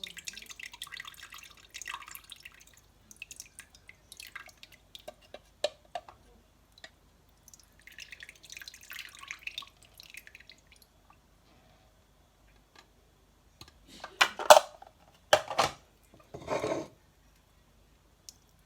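Freshly squeezed lemon juice poured into a bowl, trickling and then dripping in short runs. Near the end come three louder, short knocks or scrapes.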